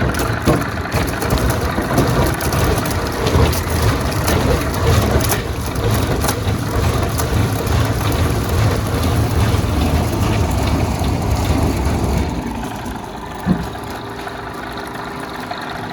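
Rotary veneer peeling lathe running, with a heavy rumble and many crackles and clicks as the log is peeled. About twelve seconds in the rumble drops away to a quieter machine hum, broken by a single knock.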